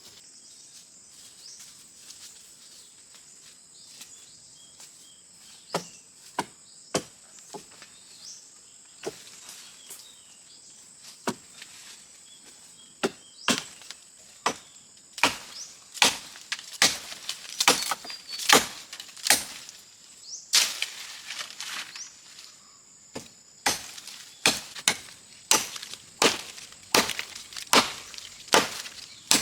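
A series of sharp chopping knocks, irregular and sparse at first, then coming in quick runs from about fifteen seconds in.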